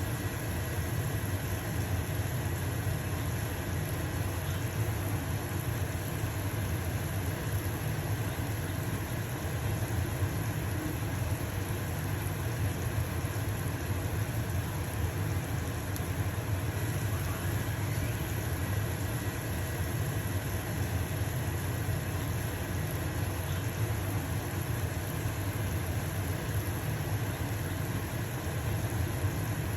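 Stove-top range hood fan running with a steady low hum, over the even sizzle of a pancake frying in a pan.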